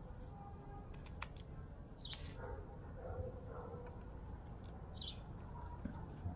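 Small birds chirping twice, briefly, over a steady low outdoor rumble, with a few light clicks from a small tube being handled and its cap worked open.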